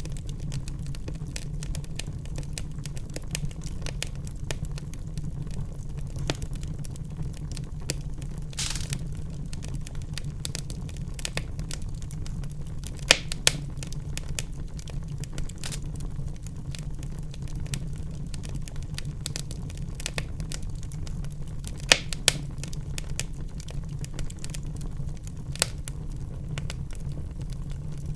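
Wood fire crackling in a fireplace: a low steady rumble of the flames with a constant scatter of small snaps and a few louder pops, about halfway through and twice more near the end, plus a brief hiss of gas from the burning wood about a third of the way in.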